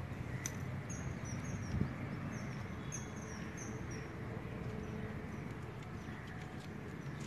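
Small birds chirping in quick runs of short, high notes, mostly in the first half, over a steady low outdoor rumble.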